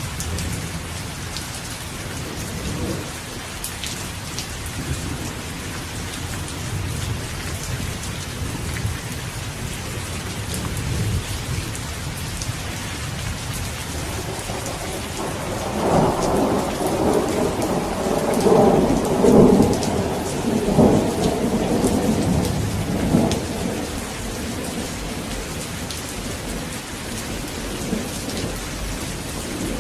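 Steady rain with rolling thunder. A louder thunder rumble swells about halfway through, rolls on for several seconds, then fades back under the rain.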